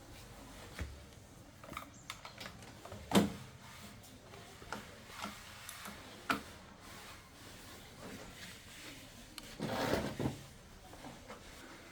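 Scattered light clicks and knocks of tools and parts being handled during TV repair work. There is a sharper knock about three seconds in, another near six seconds, and a short scraping rustle near the end.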